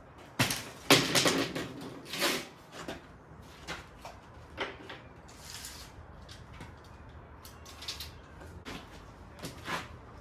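Pieces of timber and lattice being handled and knocked into place: a run of irregular wooden knocks and clatters, loudest in the first two and a half seconds, then sparser clicks and taps.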